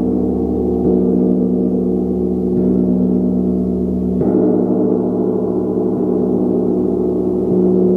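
A gong struck softly about every one and a half seconds, its tones ringing on and overlapping into a steady, continuous wash.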